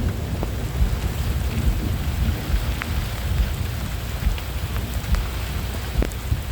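Rain falling in a thunderstorm, with a heavy, gusty low rumble of thunder and wind on the microphone under it. Scattered sharp ticks of drops hitting nearby.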